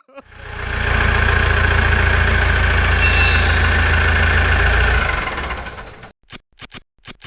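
A tractor engine running steadily with a deep low hum. It fades in during the first second and fades away about five to six seconds in, followed by a few short clicks.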